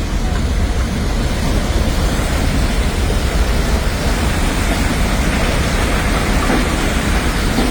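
Swollen mountain stream in flood, rushing past: a loud, steady, unbroken noise of fast-moving water with a heavy low rumble.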